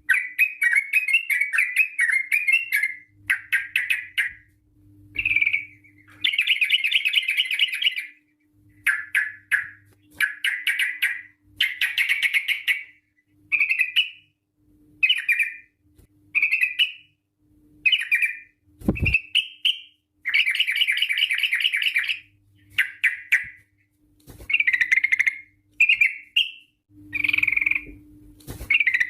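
Yellow-vented bulbul (trucukan) singing its rolling 'ropel' song: a long run of quick, bubbly chattering phrases repeated with short pauses. One dull thump about two-thirds of the way through, under a faint steady hum.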